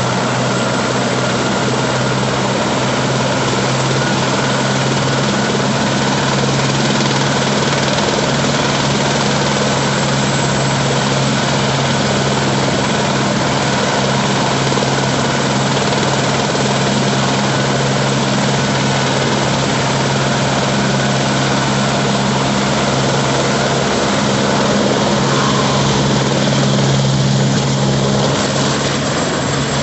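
Police helicopter's engine and rotor running steadily with a constant low hum, a little louder near the end.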